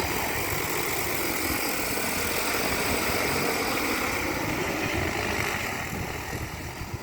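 DJI Agras T40 agricultural drone's rotors, a loud steady whirring with a rush of downwash, fading near the end as it moves away.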